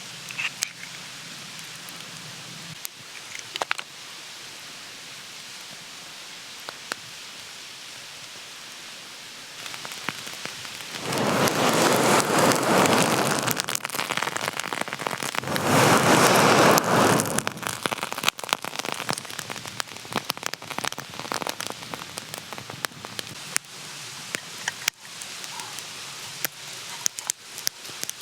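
Food sizzling and spattering in a hot pan over a campfire, with small crackles and pops. Two louder stretches of hissing sizzle, each about two seconds long, come around a third and about halfway through.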